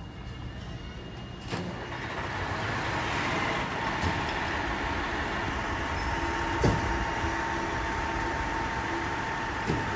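Fire engine's engine running and growing louder from about a second and a half in, with a steady whine over the rumble. Two short sharp knocks are heard, one past the middle and one near the end.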